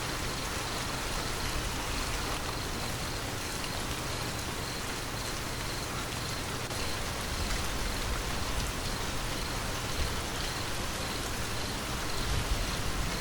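Steady rain falling, an even hiss of many drops, with a low rumble starting to swell near the end as thunder builds.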